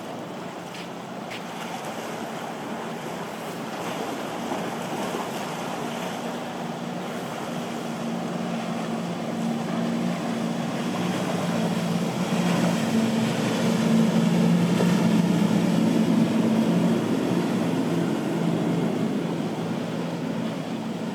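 A powerboat's engines running past, a low hum that grows louder to a peak about two-thirds of the way through and then fades, over a steady wash of surf and wind.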